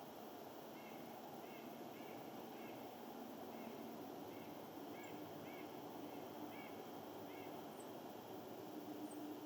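A bird calling in short, repeated, arched notes, about one to two a second, stopping a little before the end, with a couple of faint high chirps near the end. A steady low background hiss runs under it.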